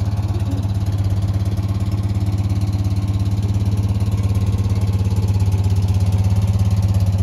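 Citroën 2CV's small air-cooled flat-twin engine idling steadily.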